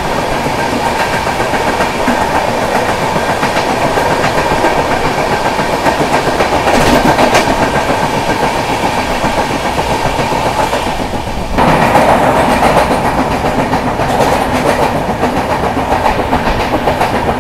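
Passenger train running at speed, heard from an open coach door: steady wheel-and-rail noise with clickety-clack over the rail joints and strong wind on the microphone, while the coaches of another train run close alongside. The noise jumps louder suddenly a little past halfway.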